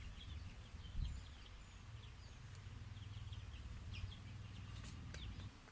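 Birds chirping faintly in short scattered calls over a steady low rumble.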